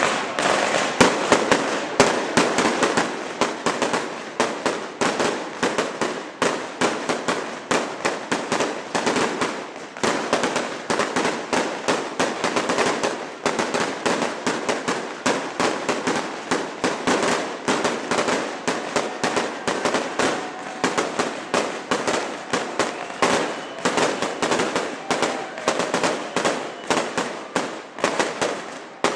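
Fireworks display: a dense, unbroken barrage of sharp bangs, several a second, going on without a pause.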